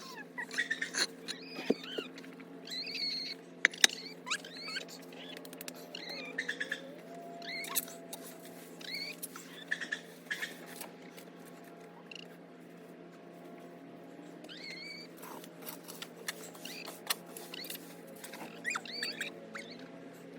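Birds chirping: many short, high calls, each sliding in pitch, repeating irregularly, with a few sharp clicks and knocks among them.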